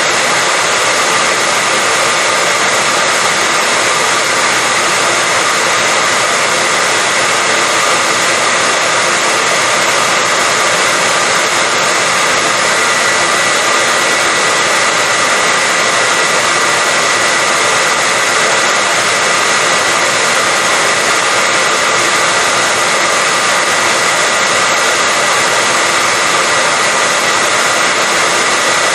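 Hair dryer running continuously: a steady, even blowing noise with a faint high tone from its motor, unchanging throughout.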